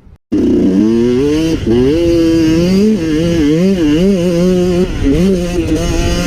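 Yamaha YZ125 two-stroke engine revving hard under riding, its pitch climbing and dropping again and again as the throttle is worked, with brief dips about a second and a half in and just before five seconds. It cuts in abruptly right at the start.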